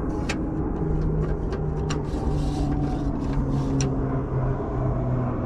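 A vehicle engine running with a steady low rumble, its pitch drifting slightly. Three or four sharp metal clicks and taps sound over it as the pieces of a spare-tire lowering tool are fitted together.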